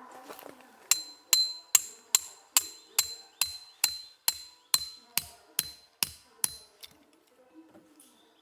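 A hammer striking a metal tent stake about fifteen times at a steady pace of roughly two to three blows a second, each blow ringing briefly with a metallic tone, driving the stake into the ground.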